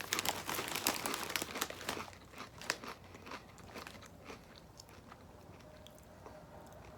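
A person crunching and chewing a Doritos tortilla chip. The crunches come thick and fast for about the first two seconds, then thin out and fade as the chewing goes on.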